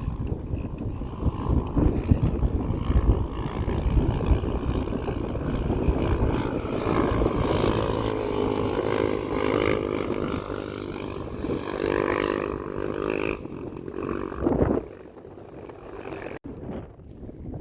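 Motorcycle engines running and revving, rising and falling in pitch, with wind buffeting the microphone. The sound drops sharply about fifteen seconds in.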